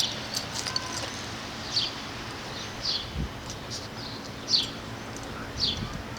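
A songbird calling over and over: short, high chirps that slide downward, about one a second. A few faint ticks and a soft low thump are also heard.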